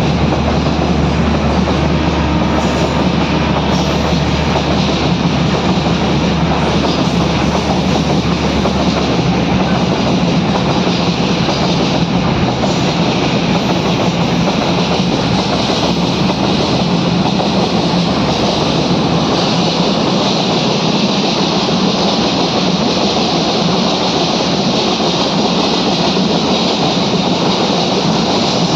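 A moving train running on its rails: a steady loud rumble and rattle of the wheels and carriages, with a low hum that dies away about a third of the way through.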